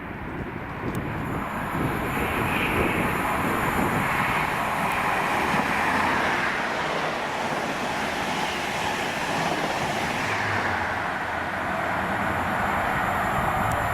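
A train running past on the line: a steady rush of wheel and rail noise that builds over the first couple of seconds, then holds.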